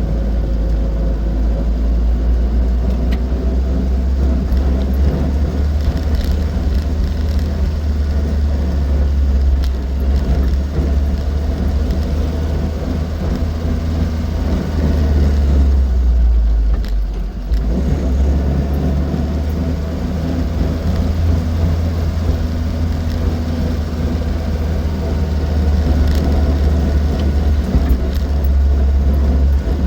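Austin Seven's small four-cylinder side-valve engine running steadily while the car is driven on the road, with a brief drop in the engine sound about seventeen seconds in.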